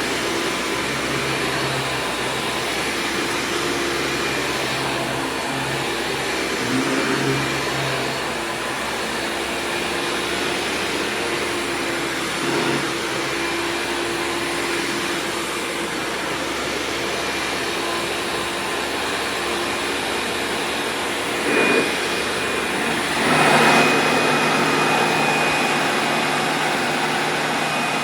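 Hoover Supreme PowerDrive upright vacuum cleaner running, a steady motor hum and airflow hiss, with a few brief louder swells as it is pushed along. Near the end the hum shifts slightly in tone.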